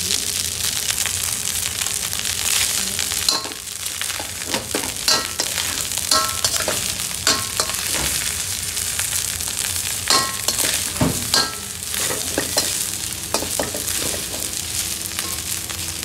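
Chicken tikka biryani rice sizzling in a hot wok while a metal spoon stirs and turns it. Under a steady hiss, the spoon scrapes the pan and knocks against it now and then with short ringing clinks.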